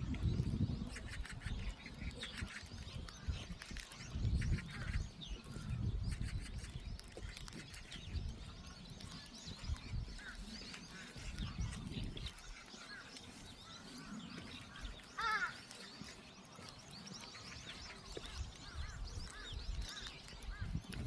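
Wild birds chirping and calling on and off over light rain, with a louder call about 15 seconds in. Irregular low rumbles run underneath.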